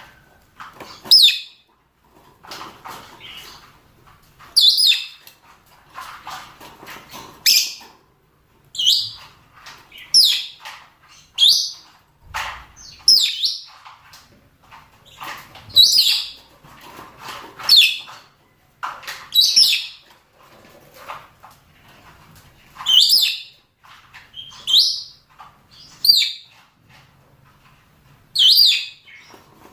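Rosy-faced and Fischer's lovebirds calling: sharp, high-pitched shrieks repeated about every one and a half to two seconds, with softer chattering in between. These are male and female mating calls.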